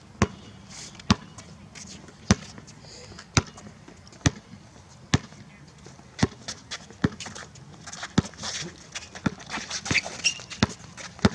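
A basketball being dribbled on an outdoor court, bouncing about once a second, with the bounces coming closer together in the last few seconds.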